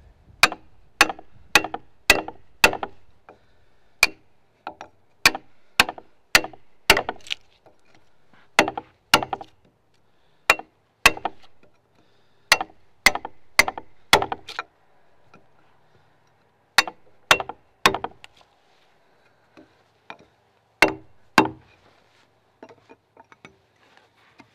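Axe chopping into a log timber while cutting a corner cog: sharp single strikes about two a second in short runs, with pauses between, and a few lighter taps near the end.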